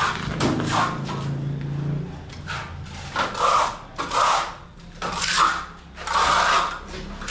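A series of rubbing or scraping strokes on a hard surface, about one a second, each lasting about half a second.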